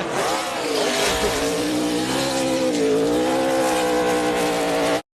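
NASCAR Cup race car's V8 engine running at high revs, its pitch wavering up and down over a hiss. It cuts off suddenly near the end.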